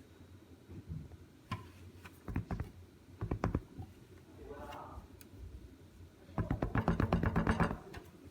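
Crafting materials being handled: scattered clicks and taps, then a quick run of rapid clicking near the end.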